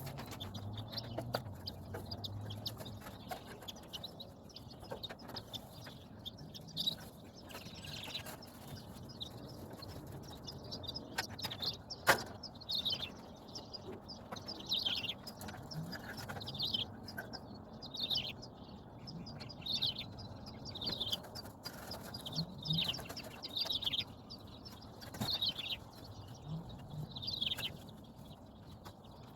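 Birds calling: short, high, falling chirps every second or two, with lower calls between them. A single sharp knock comes about twelve seconds in.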